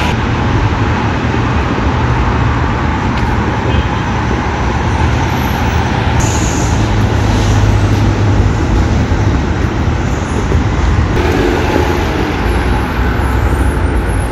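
Steady road traffic noise from vehicles going by on the street.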